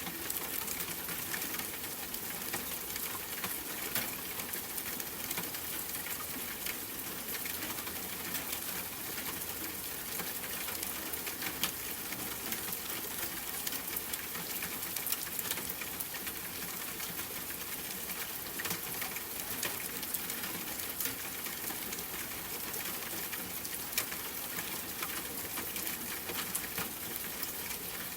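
Steady rain patter, with scattered sharp ticks of individual drops striking.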